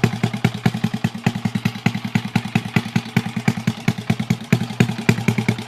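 Honda Chaly minibike's single-cylinder Wave 100 engine idling, smooth and steady, with evenly spaced exhaust pulses.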